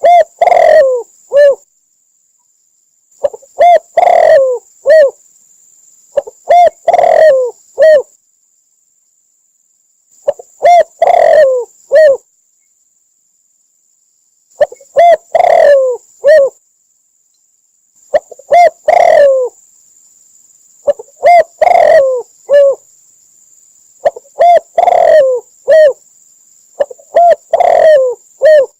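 Spotted dove cooing: a phrase of three or four low coos, repeated about nine times with short pauses between.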